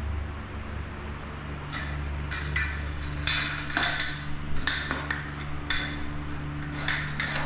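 Metal parts of a silicone caulking gun clinking and scraping as it is handled after falling apart: a dozen or so irregular clinks, over a steady low hum.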